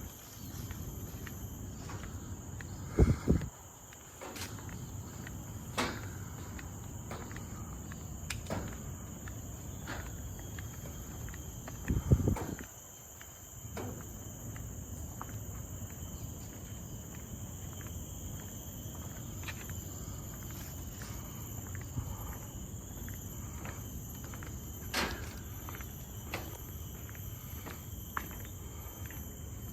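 Footsteps of a person walking at an even pace on a trail, with a steady high-pitched drone of forest insects behind them. Two loud low thumps come about 3 seconds in and again about 12 seconds in.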